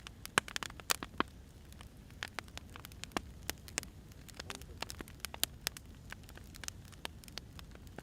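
Burning firewood crackling: irregular sharp pops and snaps over a low steady rumble of the fire.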